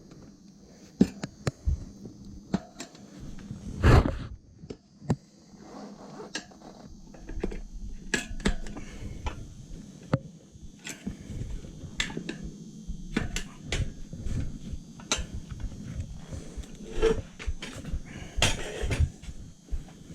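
Irregular clicks and knocks of hand tools and metal parts being handled while working on a dirt bike's wheel and tire, with a louder knock about four seconds in.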